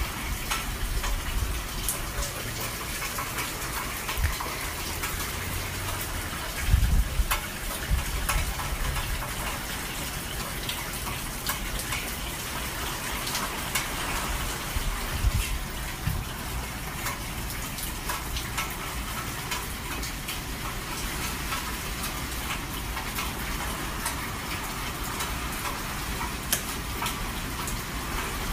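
Steady rain from an approaching hurricane, with gusts of wind buffeting the microphone in low rumbles, the strongest about seven seconds in.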